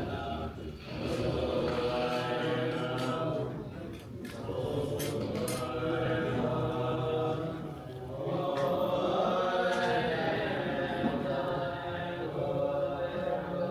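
Buddhist monks chanting prayers together, several voices held in long phrases with brief breaks every few seconds.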